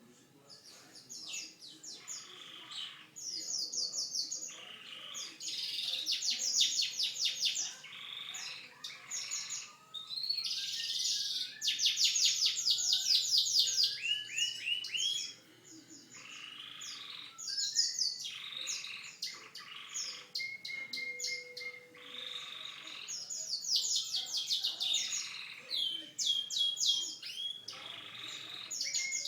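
Canary singing a long continuous song of rapid trills, each roll of fast repeated notes lasting a few seconds, with gliding notes in between and a short held whistle about two-thirds of the way through.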